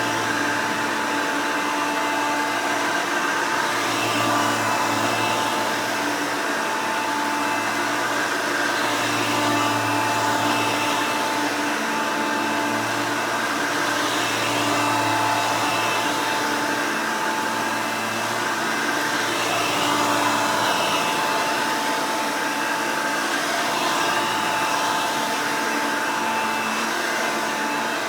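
Hoover Elite upright vacuum, pieced together from an Elite 600 base and brush roll and an Elite 350 motor, running steadily: an even rush of air with a steady high whine from the motor.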